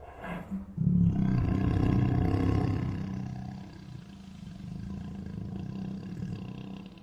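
Tiger roaring: a short vocal sound at the start, then a long roar from about a second in that is loudest over the next two seconds and trails off into a quieter, lower growl.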